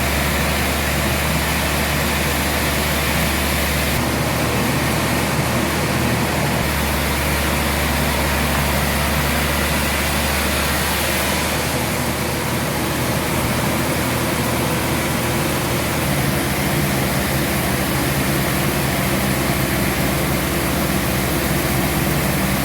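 Sawmill machinery running with a steady, engine-like drone and a constant low hum. Its tone shifts a few times along the way.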